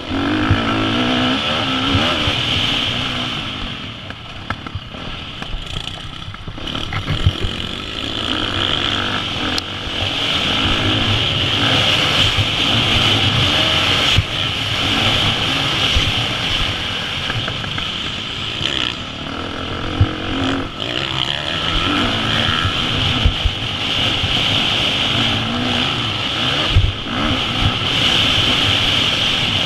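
KTM 350 SX-F's single-cylinder four-stroke engine revving hard and backing off again and again, pitch climbing and falling through the gears, with a short lull about four to six seconds in and occasional sharp knocks.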